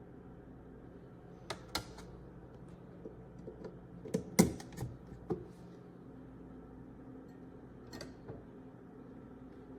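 Scattered light clicks and knocks of hard objects being handled, a louder cluster of knocks about four seconds in, over a faint steady hum.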